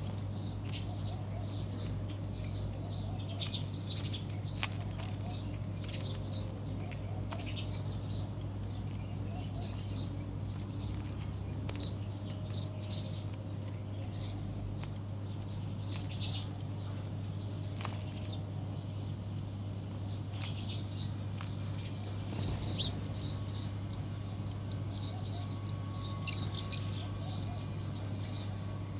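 A flock of small birds chirping, many short high calls overlapping, busier and louder in the last several seconds. A steady low hum runs underneath.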